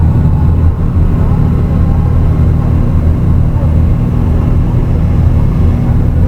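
Dark ambient drone music: a dense, steady low rumble with faint, slowly wavering tones above it.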